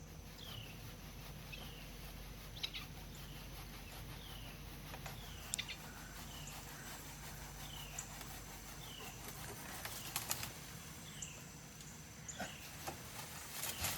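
A songbird repeating a short downslurred call about once a second, with scattered sharp clicks and snaps that grow more frequent near the end.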